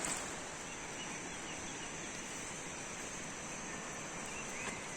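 Steady outdoor ambience: an even rushing hiss with a high, unbroken insect drone over it.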